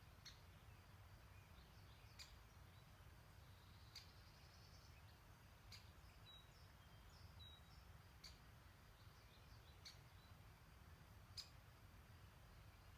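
Near-silent outdoor ambience with a low rumble, faint high ticks about every second and a half to two seconds, and a couple of brief, faint distant bird chirps midway.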